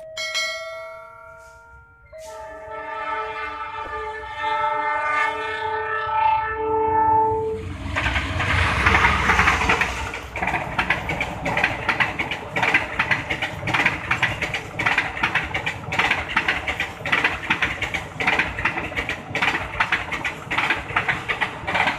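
Multi-tone train horn sounding in several held blasts as a CC 206 diesel locomotive approaches, then a rumble as the locomotive passes. Its passenger coaches follow, with the wheels clicking rhythmically over the rail joints.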